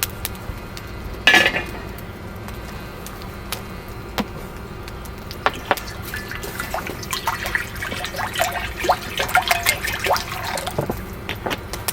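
Kitchen handling sounds: a brief rush of noise, then many light clinks and knocks of dishes and utensils, with liquid pouring.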